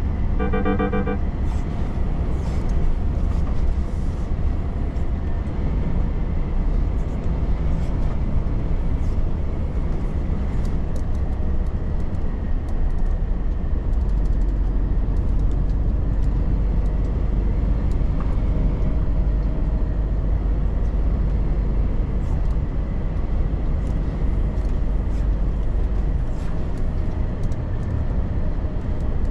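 Volvo FH truck on the move: steady low diesel engine rumble and road noise. A short run of quick beeps sounds about half a second in.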